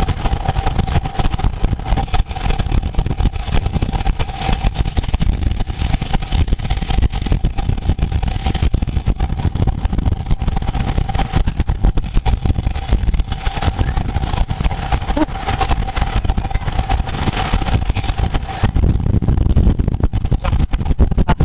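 Wind rushing over the microphone of a camera riding along in a road bicycle race, with a steady thin whine running through it that drops out briefly about halfway through.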